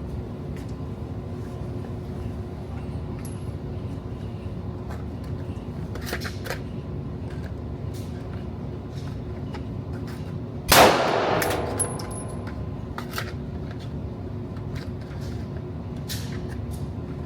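One loud gunshot about eleven seconds in, with a short ringing tail, and several fainter, more distant shots scattered through, over a steady background hum.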